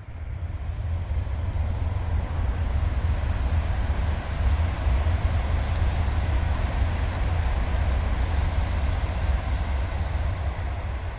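A train running past, a loud, steady low rumble with a rushing noise over it, starting abruptly.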